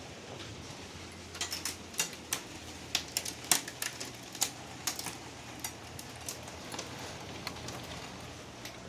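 Hailstones striking a hard surface: irregular sharp clicks, densest in the first half and sparser later, over a steady hiss.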